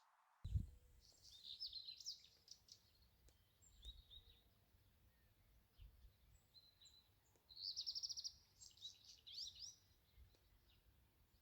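Small songbirds chirping and singing faintly, with short high notes and quick sweeping calls, and a rapid trill about eight seconds in. A low rumble, likely wind, runs underneath.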